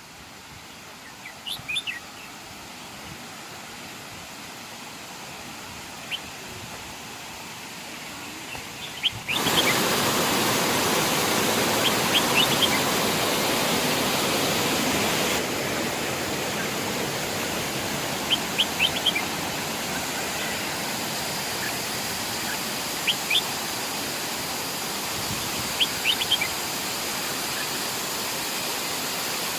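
Steady rushing of a waterfall, stepping up sharply louder about nine seconds in, with a bird's short chirps repeating every few seconds.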